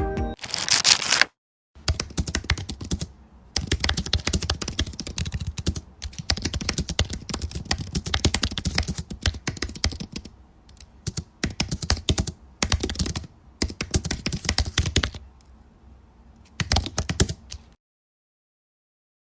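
Rapid, irregular clicking in bursts with short pauses between them, like typing on a computer keyboard. A brief whoosh comes first, and the clicking stops near the end.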